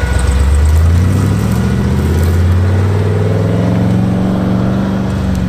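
Off-road Jeep's engine accelerating, its pitch rising steadily for about four seconds and then holding.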